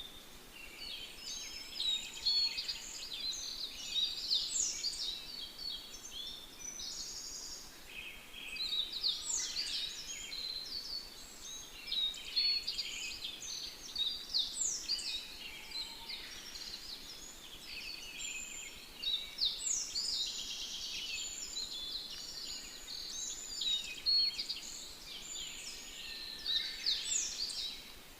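Many birds chirping and calling at once, a dense chorus of quick, high notes that overlap without pause.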